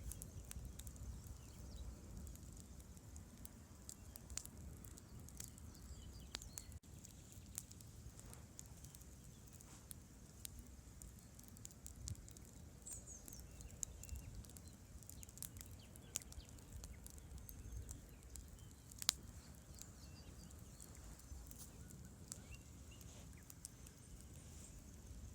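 Campfire crackling, with sharp irregular pops of burning wood and one louder pop about 19 seconds in, over the low steady rush of a river.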